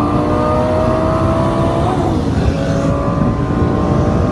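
Twin-turbo LS V8 of a Camaro SS at full throttle, rising steadily in pitch. It shifts gear a little over two seconds in, then pulls again.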